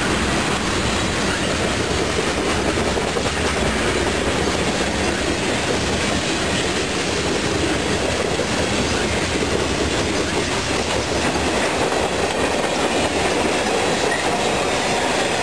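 Freight train rolling by, a steady noise of wheels on rail.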